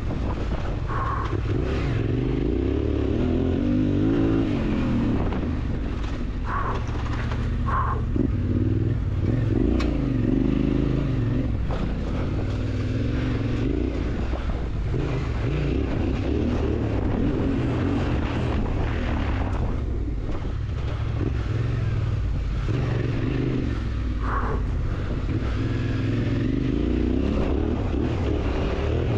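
Yamaha Ténéré 700 parallel-twin engine running under load on a dirt trail, its revs rising and falling over and over with the throttle, with wind and tyre noise over it.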